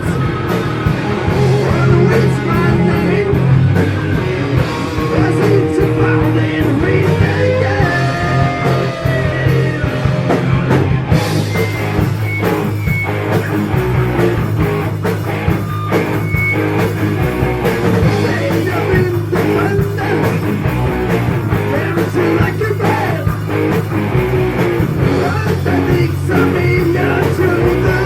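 Heavy metal band playing: electric guitars, bass and drums, with a singer's voice over them. About eleven seconds in the top end gets brighter and hissier.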